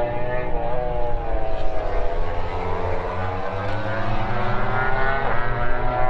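Racing motorcycle engines running at high revs, their pitch dipping and climbing again over a few seconds, over a steady low rumble.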